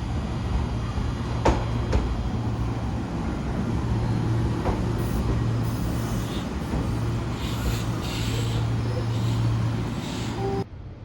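Chichibu Railway electric train at a station: a steady low hum with two sharp knocks about a second and a half in, then patches of hiss of air, cutting off suddenly near the end.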